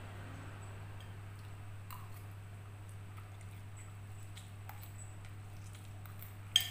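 Close-up eating sounds of a person chewing a mouthful of fried instant noodles, over a steady low hum, with a few faint soft clicks. Near the end, a sharp clink, the spoon striking the ceramic bowl.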